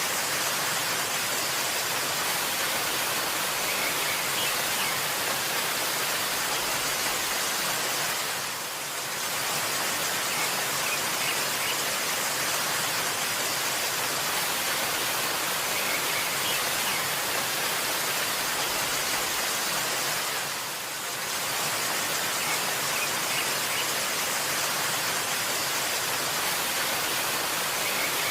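Waterfall: a steady rush of falling water that dips briefly twice.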